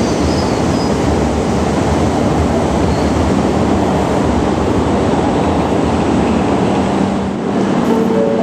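Shinkansen train running along the station platform: a loud, steady rush of wheel, motor and air noise. A few short steady tones start near the end.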